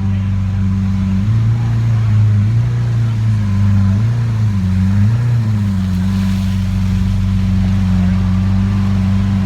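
A car engine running steadily at low revs, its pitch rising and dipping slightly a few times.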